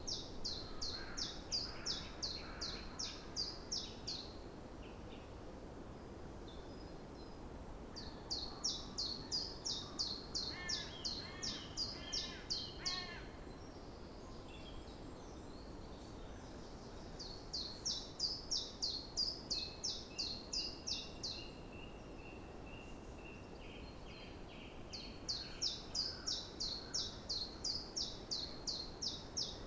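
Songbird singing four bouts of rapidly repeated high notes, about three to four notes a second, each bout lasting about four seconds with pauses of about four seconds between them. Fainter calls from at least one other bird fall in the pauses, over a steady low background hiss.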